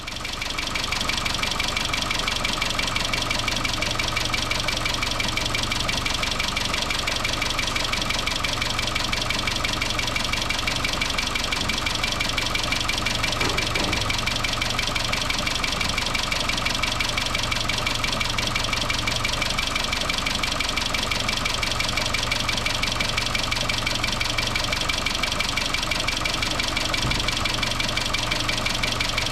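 2013 Chevrolet Cruze 1.4 Turbo engine idling with a steady, fast rattle. The rattle comes from the valve lifters losing oil pressure in their oil galleries because the upper timing chain guide has come loose.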